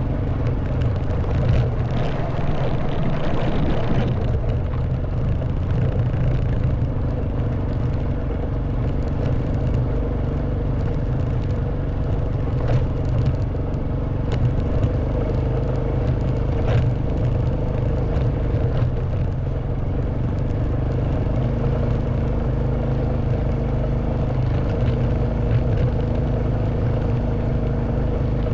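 Honda Wave 110cc motorcycle's single-cylinder four-stroke engine running at a steady pace under way, with wind noise and a few sharp knocks from the bike along the way.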